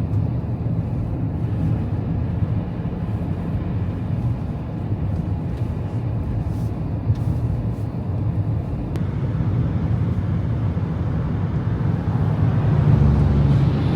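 Car driving, heard from inside the cabin: a steady low rumble of engine and road noise that swells somewhat near the end.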